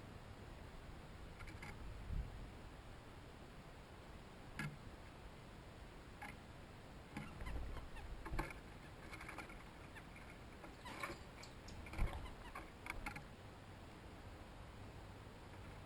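Small animals moving on a seed feeder: scattered taps, scratches and clicks with a few low thumps, busiest through the middle.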